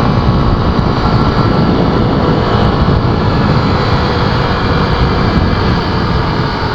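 Honda XR250 Tornado's single-cylinder four-stroke engine running steadily under load while the bike climbs a small dirt hill, with heavy wind rush over the microphone. It eases off slightly near the end.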